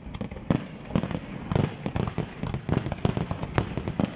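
Aerial fireworks shells bursting in a rapid, unbroken barrage, several bangs a second.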